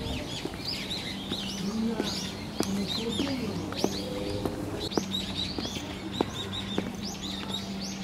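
Small birds chirping: many short, quick chirps that rise and fall, repeated throughout. Irregular footsteps on stone steps and a low steady hum sit underneath.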